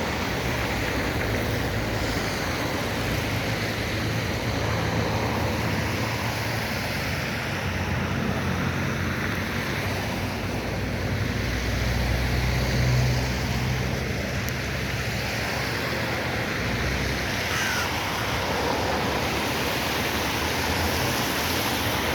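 Steady rush of flowing river water, the Iset, with a low rumble underneath that swells briefly midway.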